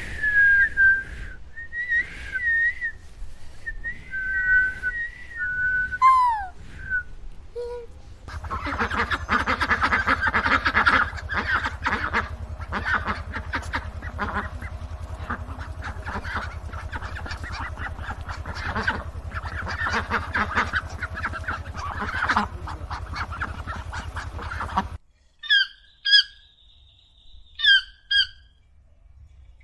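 Geese honking: a few separate calls at first, then a whole flock calling over one another for most of the stretch. Near the end there are only a few separate calls.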